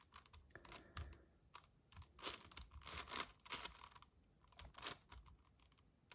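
Magnetic 7x7 Rubik's cube being turned by hand: faint, quick runs of plastic clicks and rattles as layers are twisted, in irregular bursts with short pauses between them.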